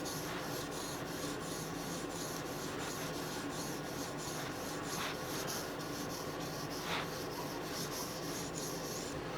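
Knife blade being stroked across a sharpening stone, a steady scraping, partway up the grit progression toward about 800 grit.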